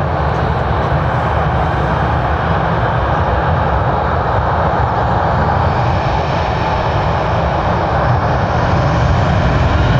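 Jet airliner's engines running as the aircraft passes on the runway: a steady rushing noise, heavy in the low end, that grows slightly louder toward the end.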